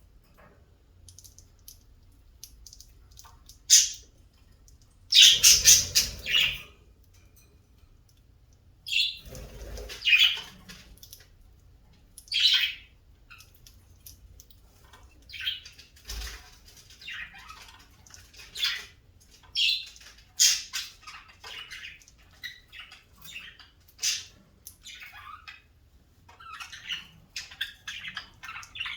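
Birds calling: a run of harsh squawks and chirps, with the loudest bunched calls in the first half and shorter, quicker calls coming more often later on.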